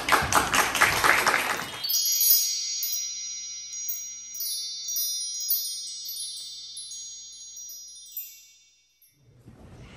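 About two seconds of clapping as the dance ends, then a cascade of high, bell-like chimes that ring on and slowly fade out over about seven seconds.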